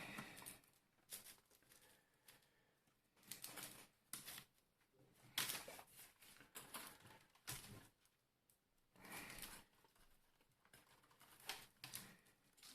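Faint, scattered clicks and rustles of a steam iron's plastic housing and inner parts being handled and pulled apart, a few small sounds every second or two.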